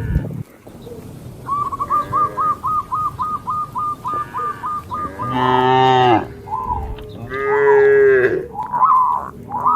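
Cattle mooing: two loud, long, falling moos in the second half. Before them comes a quick run of short, high repeated notes, about five a second.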